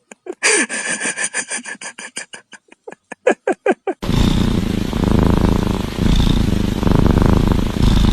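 A quick, even run of clicks with a few short falling squeaks. About halfway it gives way to a loud cat purr right at the microphone, swelling and easing with each breath.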